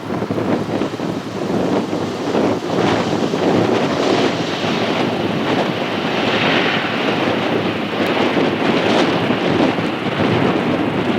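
Jet airliner engines roaring as the aircraft passes close by: a loud, steady rushing roar that swells about six seconds in.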